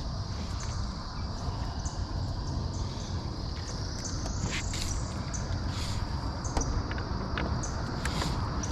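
Steady high-pitched insect chorus of a swamp, with a few short bird chirps and one rising call about four seconds in, over a low rumble.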